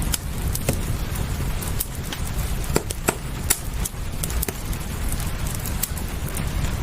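Wood fire crackling, with irregular sharp pops several times a second, over a steady low rumble and the hiss of rain.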